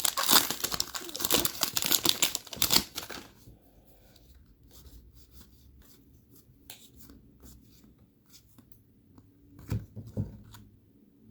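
A trading card pack's foil wrapper being torn and crinkled open for about three seconds, then faint ticks of the cards being handled, with a couple of sharper taps near the end.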